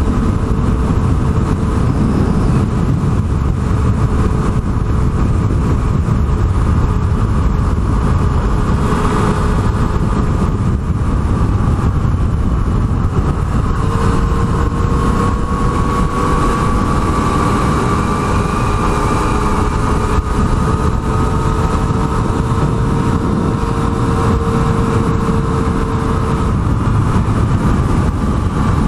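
Yamaha MT-09's three-cylinder engine running at road speed under heavy wind noise on the microphone, its note climbing slowly in the second half.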